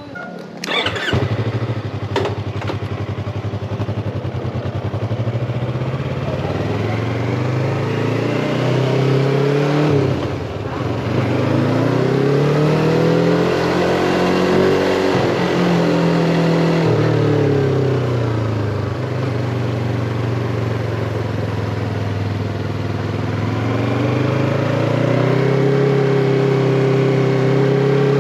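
Yamaha MT-25's parallel-twin engine accelerating: the revs climb, break at a gear change about ten seconds in, climb again, then fall away and hold steady before rising once more near the end. A few sharp clicks come in the first couple of seconds.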